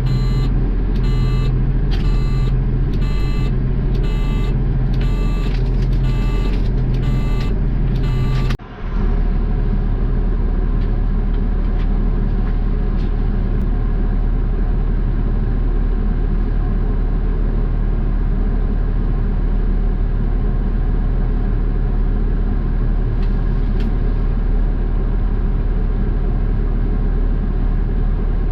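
Garbage truck's reversing alarm beeping about once every second over its running diesel engine; the beeps stop about eight seconds in and the engine keeps running steadily.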